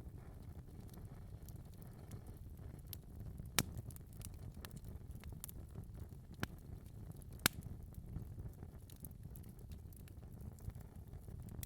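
Wood fire burning in a fireplace: a steady low rumble of flames with scattered crackles and a few louder sharp pops.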